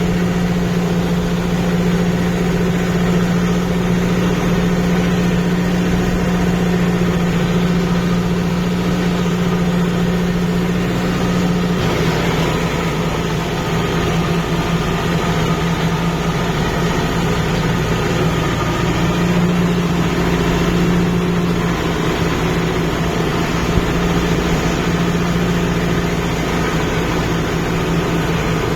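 Kubota MU5502 tractor's diesel engine running steadily, a constant low drone with no change in pitch.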